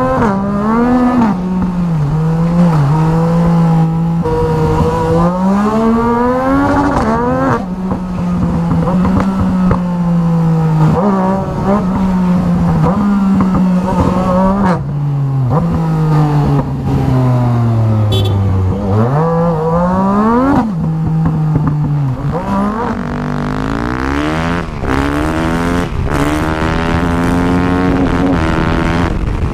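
Motorcycle engine being ridden hard through the gears: its pitch climbs and drops sharply at each shift, and falls steadily for a few seconds as the bike slows, before climbing again.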